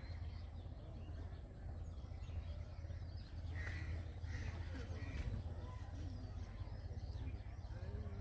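Outdoor birds calling: three louder calls a little past halfway, and scattered faint chirps, over a steady low rumble.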